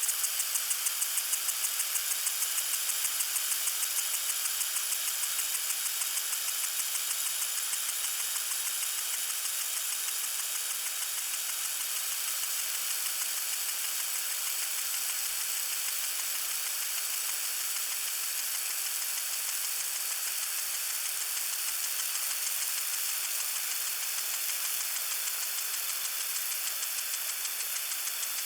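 Lawn sprinkler spraying water: a steady hiss with a rapid, even pulsing that is strongest in the first few seconds and then evens out.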